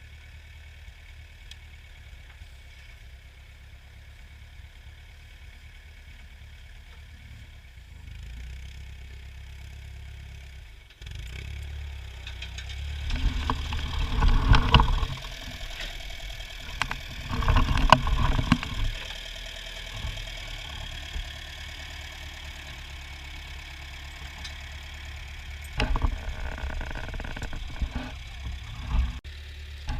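Engine of a 1960s–70s Ford farm tractor running while ploughing sod, quiet and steady at first. About a third of the way in it gets suddenly louder, with two loud surges close together and a shorter one near the end.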